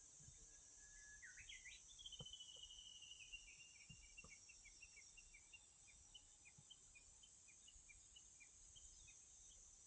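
Faint bird song: one held whistle, then a quick rising flourish and a long run of short notes that slowly falls in pitch, going on as evenly spaced short notes about twice a second. A steady high hiss lies underneath.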